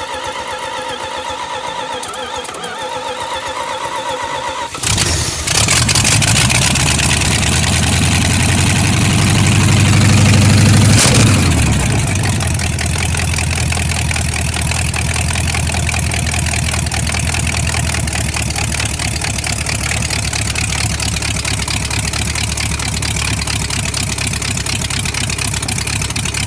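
Cold start of a small-block V8: the starter cranks with a steady whine for about five seconds, then the engine fires and catches. It runs at a raised speed for several seconds, then drops back to a steady idle about twelve seconds in.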